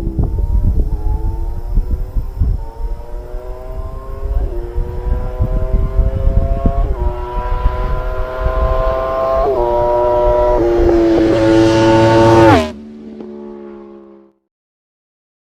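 Exhaust of a 1000 cc motorcycle engine pulling hard, its pitch climbing in several steps as it runs up through the revs. It cuts off sharply about 12 seconds in, a weaker tone lingers briefly, then silence near the end.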